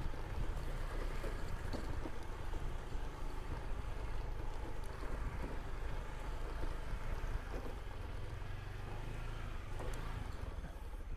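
Motor scooter running steadily while being ridden, a low rumble with wind buffeting the microphone.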